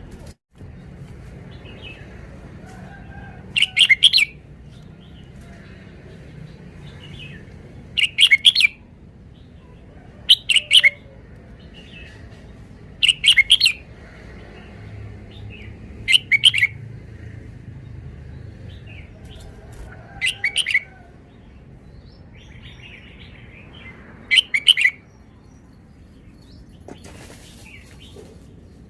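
Red-whiskered bulbul singing short, loud, bright phrases, about seven of them, repeated every few seconds.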